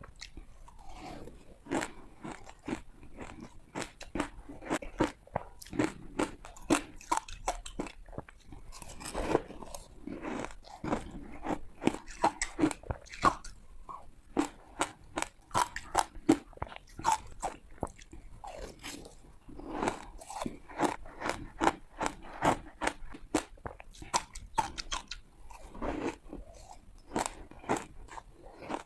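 Ice being bitten and crunched between the teeth close to the microphone: a rapid run of sharp cracks and crunches, several a second, in bursts of chewing.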